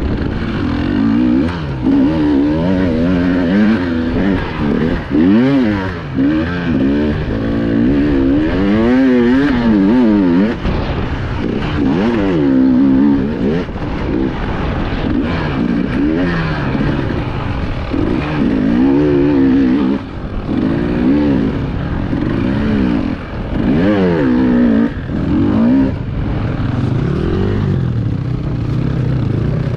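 Enduro motorcycle engine revving up and down over and over as the throttle is opened and shut on rough terrain, with brief dips where the throttle is cut.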